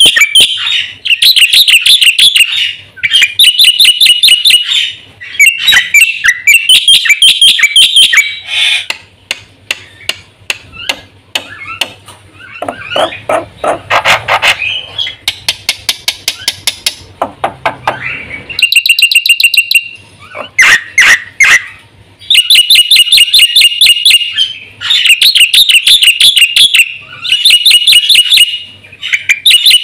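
Black-winged starling singing loudly: rapid strings of repeated, sharp chattering notes in bursts of a second or two, broken by short pauses, with a lower, harsher rasping passage about midway.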